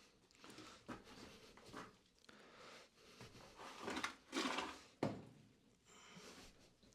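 Faint handling noises: a few light knocks, a short rustle a little before the middle, and one sharper knock about five seconds in.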